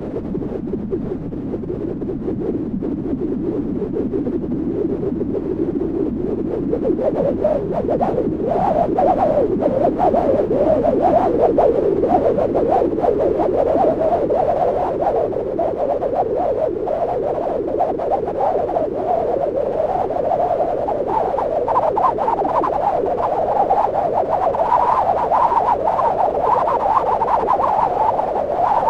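Synthesized wind made in Max: a band of filtered noise with a whistling, wavering tone. It rises in pitch and grows louder over the first several seconds, then holds high and gusty.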